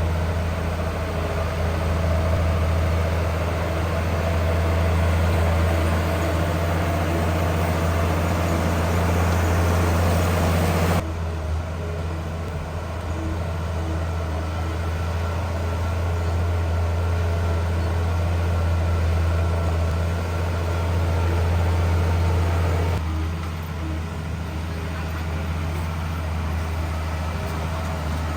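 Heavy diesel engines of earthmoving machinery running steadily with a deep, even hum. The sound changes abruptly about 11 seconds in and again near 23 seconds.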